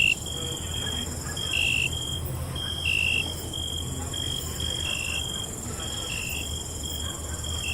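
Crickets chirping at night: a steady high trill with shorter, louder chirps repeating every second or two, over a low steady rumble.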